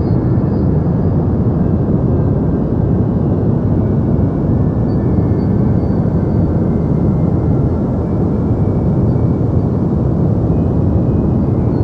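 Deep white noise for sleep: a steady, unchanging rush of noise, weighted toward the low end so that it sounds like a dull rumble.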